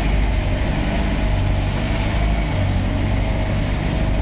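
Riverboat's engine running steadily under way: a loud, even low drone with a thin steady whine above it.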